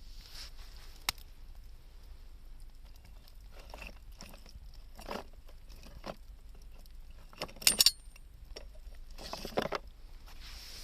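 Wood campfire crackling, with scattered sharp pops and a cluster of loud cracks a little past the middle.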